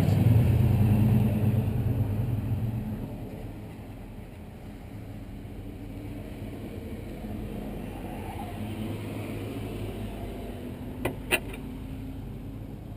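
A motor vehicle's engine running with a low rumble that fades away over the first few seconds, leaving a steady low background. Two sharp clicks about eleven seconds in.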